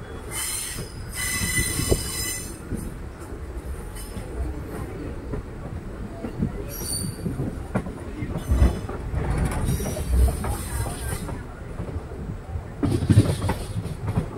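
Passenger express train running on the rails, heard from aboard a coach: a steady rumble with scattered knocks from the wheels. The wheels squeal with a high, ringing tone near the start, and squeal again a few more times later on.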